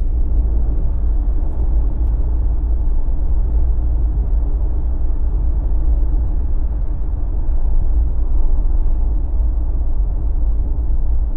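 A Jeep driving at steady speed on BFGoodrich KO3 all-terrain tyres: a continuous low road rumble of tyres and engine that holds even throughout.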